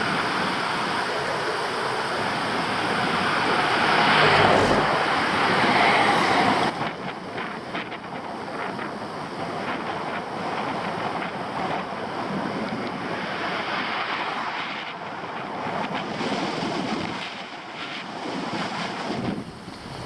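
Wind rushing over an action camera's microphone, a loud steady roar that eases after about six seconds and then gusts up and down.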